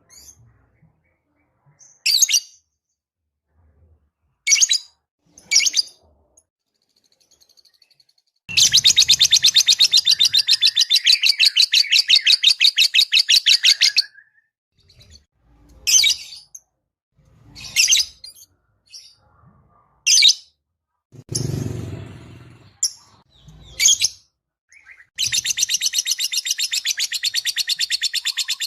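Lovebird calling: sharp single high chirps every second or two, broken by two long, rapid, rattling trills lasting several seconds, one midway and one starting near the end. This is lovebird song of the kind played as a lure sound to set other lovebirds singing.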